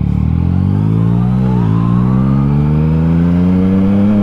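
Yamaha MT-09's inline three-cylinder engine through an Akrapovic exhaust, accelerating hard: the revs climb, drop briefly with an upshift about one and a half seconds in, then climb again.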